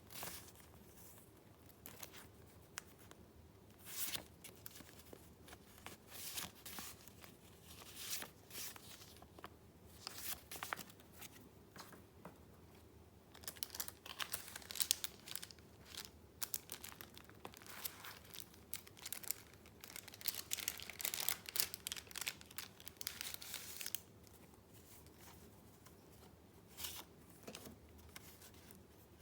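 Paper being handled: short crinkling and rustling sounds of sheets and paper pieces, coming thick and fast from about halfway in and thinning out a few seconds before the end.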